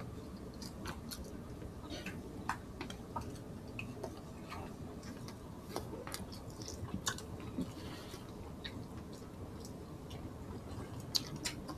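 Quiet chewing and soft mouth clicks of people eating roast chicken and rice with their hands. Scattered small smacks and clicks, with no steady rhythm.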